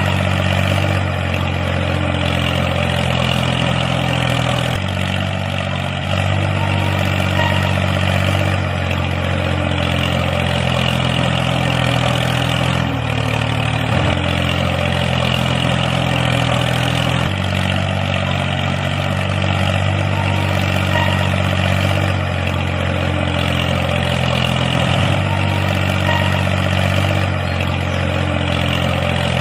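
An engine running steadily at low speed, with slight shifts in its pitch every few seconds.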